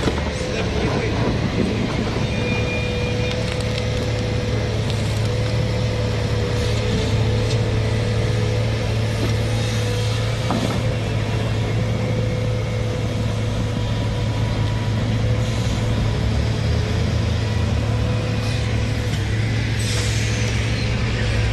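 Excavator's diesel engine running steadily under load, with a steady whine over its low hum and scattered knocks and clanks.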